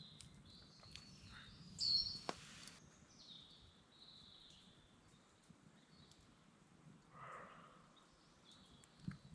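A deer calling in the woods at night: a louder high cry about two seconds in and a fainter one about five seconds later. The hiker takes it for a doe calling for her lost fawn and calls it a creepy noise. There is faint birdsong between the cries.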